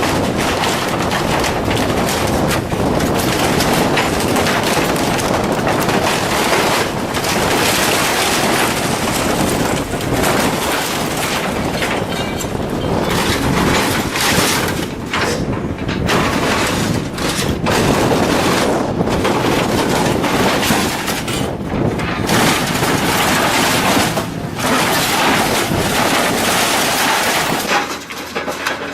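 Heavy machinery tearing and crushing scrap metal: a loud, dense crunching packed with sharp cracks and snaps.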